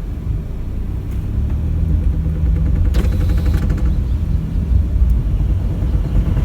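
Heavy truck's diesel engine rumbling, growing steadily louder.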